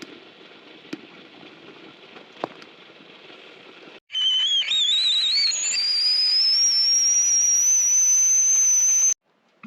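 A kettle whistling, loud and shrill: its pitch wobbles and climbs at first, then holds high and steady for about five seconds before cutting off suddenly. Before it comes in there is only a faint background hiss with two small clicks.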